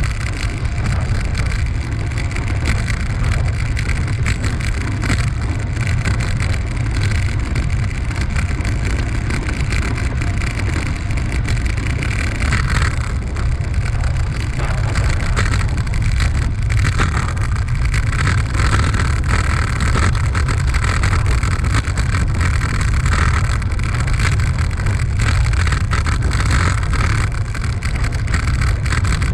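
Steady wind buffeting on the microphone during a ride, a constant deep rumble with a hiss of air and rolling noise over it.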